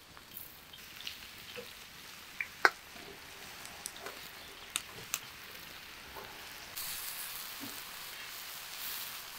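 Sliced mushrooms tipped from a steel bowl into a hot pan, sizzling, with a few sharp clinks of a metal slotted spoon against the bowl, the loudest about two and a half seconds in. About seven seconds in, a louder steady sizzle of chicken fillets frying on a hot stone takes over.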